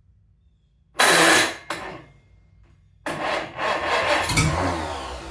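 Farmall Cub Lo-Boy's four-cylinder engine being cranked and firing in short rough bursts, then catching for a couple of seconds before fading out. It is trying to start on its first start-up after a rebuild but won't keep running.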